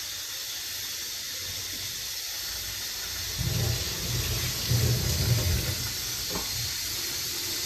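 Pressure cooker hissing steadily as steam leaks from around the sides of the lid: the seal is not holding, so pressure is not building, which the cook puts down to too little water with the brinjal. From about three seconds in, a low, uneven rumble joins the hiss.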